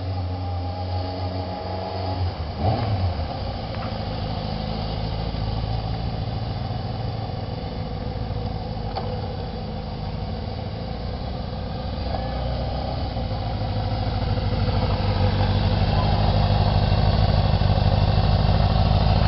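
Kawasaki Ninja ZX-6E motorcycle's inline-four engine running at low, steady revs, its note changing about three seconds in and growing louder over the last few seconds.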